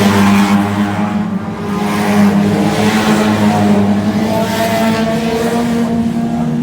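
Race car engine running at a steady, sustained note with small rises and dips in pitch.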